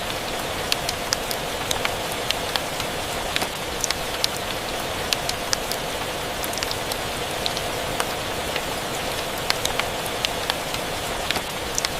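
Steady rain hiss with frequent irregular sharp ticks and pops scattered through it, a rain-and-fireplace ambience mix.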